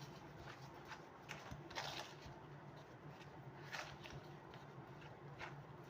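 Faint, soft squishing and scraping of a thick mashed-banana batter being stirred, a few separate strokes over a low steady hum.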